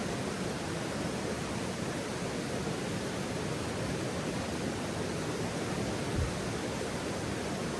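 Steady rushing outdoor noise with no crackles, and one brief low thump about six seconds in.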